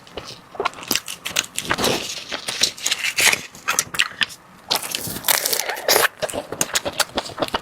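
Close-miked eating of a dessert: bites and chewing with fast, irregular clicks and crackles, and a short quieter pause around the middle.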